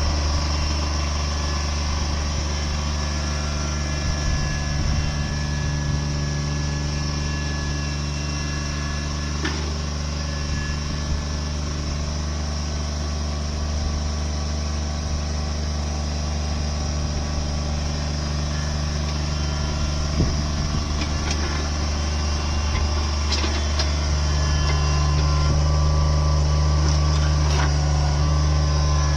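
Engine of heavy land-clearing machinery running steadily at a constant low pitch, with occasional knocks and clicks. It gets a little louder about three-quarters of the way through, as if working harder.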